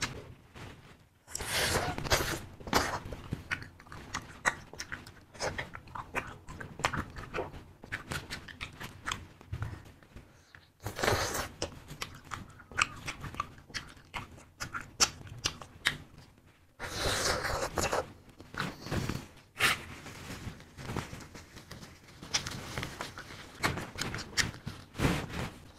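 Close-miked chewing and biting of fruit-filled wax candy: many sharp clicks as the wax is bitten and chewed, in several louder bouts with quieter stretches between.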